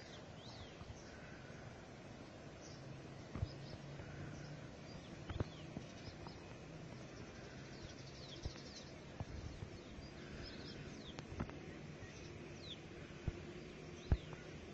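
Outdoor ambience: birds chirping now and then in short, high calls over a faint steady low hum, with a few sharp knocks, the loudest near the end.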